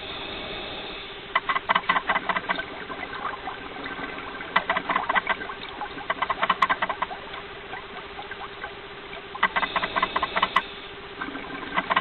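Underwater bubbling and crackling that comes in bursts of a second or two every few seconds, over a steady low hum.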